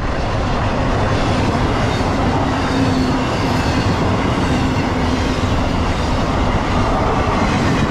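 Double-stack intermodal container cars of a freight train rolling past close by at speed: a loud, steady noise of wheels on rail, with a faint steady hum under it.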